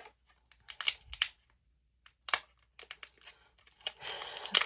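Small plastic doll accessories and packaging being handled: a few sharp clicks, then a crinkling rustle near the end.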